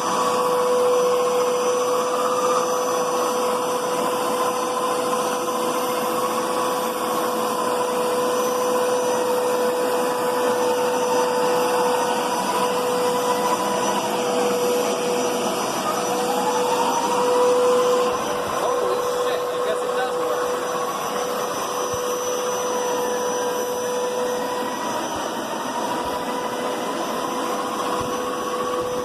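Hoover Power Scrub Deluxe carpet cleaner running steadily, its suction motor giving a constant whine with a second, higher tone that drifts up and down in pitch.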